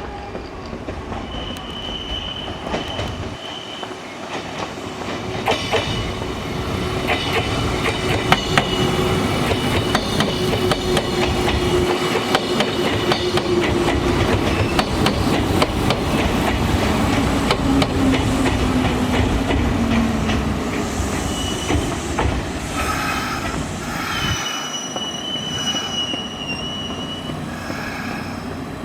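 Kintetsu Minami-Osaka Line electric train running through the station, its wheels clicking over the rail joints and its motor whine slowly falling in pitch. The sound grows louder toward the middle and then eases off, with a high wheel squeal near the end.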